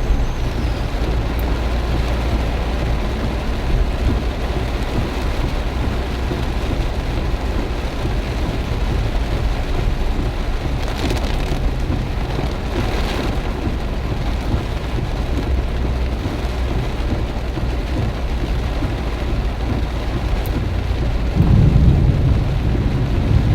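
Heavy rain pouring down in a steady hiss, with strong wind buffeting the microphone. A louder low rumble swells briefly near the end.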